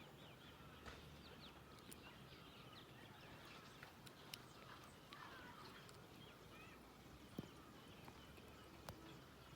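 Faint outdoor ambience with many small birds chirping in quick, short calls over a low hiss, and a few scattered sharp clicks.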